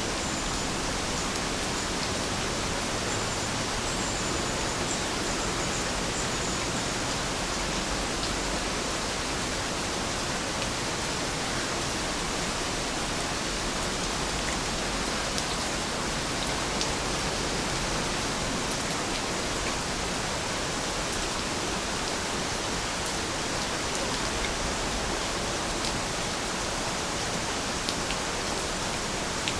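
Heavy rain falling steadily, an even hiss with faint ticks of single drops here and there.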